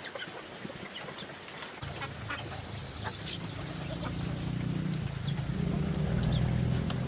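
Chickens clucking and peeping in short scattered calls. About two seconds in, a low rumble starts and grows louder toward the end.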